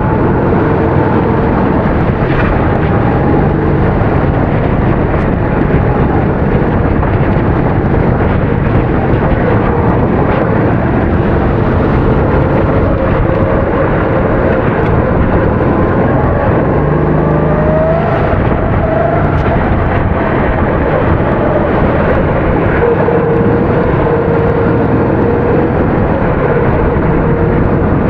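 270 cc kart engine running hard, its note rising and falling as it accelerates and slows, over a constant rushing noise.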